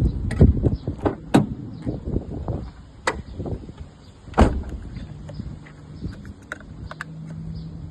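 Hard plastic clicks and knocks as a cordless vacuum's extension tube is fitted and handled, about half a dozen sharp ones in the first half, over a low steady hum.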